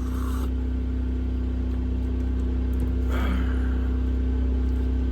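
A generator running steadily, a constant low hum, with two short rustling sounds, one right at the start and one about three seconds in.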